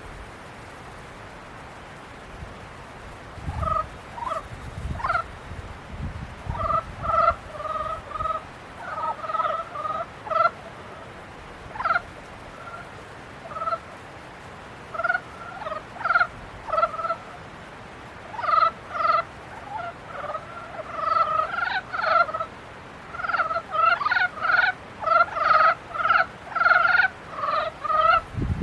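Frogs calling in a breeding chorus: short croaks repeated in quick runs, several overlapping, starting a few seconds in and growing busier over the second half.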